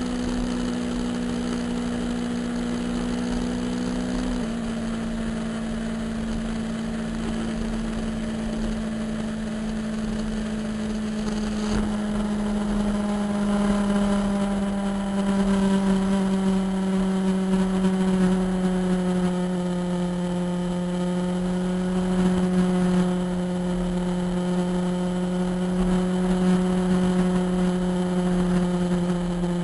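Motorcycle engine running at a steady cruise under a haze of wind noise. Its pitch steps down once about four seconds in, then slowly sinks over the second half as the bike eases off.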